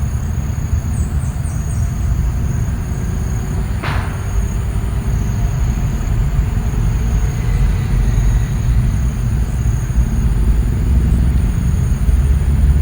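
Outdoor nature ambience dominated by a steady low rumble, with a thin, steady high chirring of insects over it and one sharp click about four seconds in.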